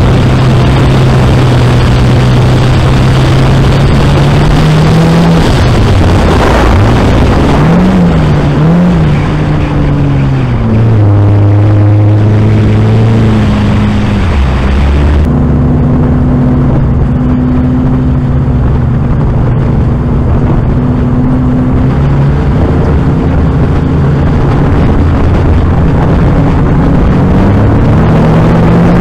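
2005 Dodge Neon's 2.0-litre single-cam four-cylinder engine running hard in a dirt-track race, heard from on board, its pitch dipping and rising a few times in the first half. About halfway through the hiss drops away and the engine settles to a steadier note.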